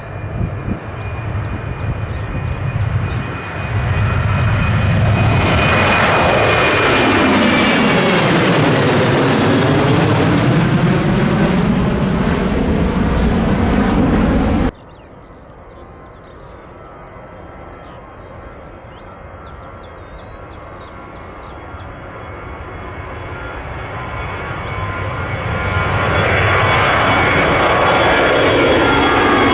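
A Boeing 737-800's CFM56 turbofans run at takeoff power as it passes close, the engine tone sweeping down in pitch as it goes by, before the sound cuts off suddenly about halfway through. Then an Airbus A320's jet engines build from faint to loud as it starts its takeoff run.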